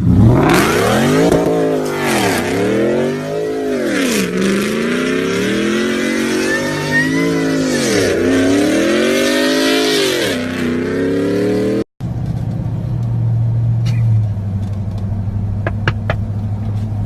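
Truck engine revved hard several times, its pitch climbing and falling over and over. After a cut about twelve seconds in, an engine idles steadily.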